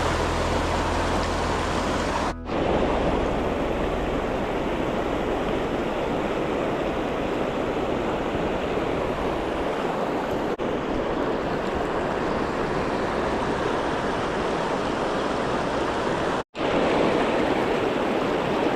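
Steady rushing of a mountain stream, with two brief cut-outs, the first a few seconds in and the second near the end.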